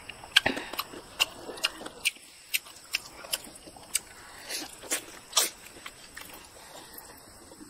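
Close-miked eating of curried chicken heads: wet chewing with sharp mouth clicks and lip smacks, about one or two a second, fading to quiet chewing over the last couple of seconds.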